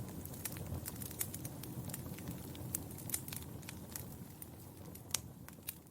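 Wood fire crackling in a fireplace: many sharp, irregular pops and snaps over a low rumble of flames, fading out near the end.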